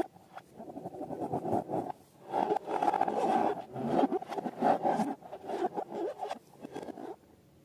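Slime being squished and worked, a rough, crackly scraping full of small ticks that rises and falls in waves and stops near the end.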